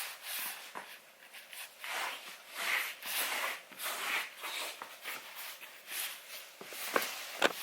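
Soft rustling and scuffing from clothing or footwear being moved, in a string of short bursts about a second apart.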